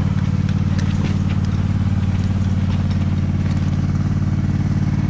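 Commercial lawn mower's engine running steadily at a constant speed, with an even low pulsing.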